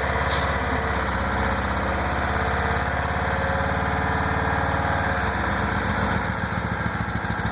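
1996 Saturn SC2's 1.9-litre twin-cam four-cylinder engine running with a fast, even knocking that refuses to stop. The owner guesses the engine has spun a rod bearing.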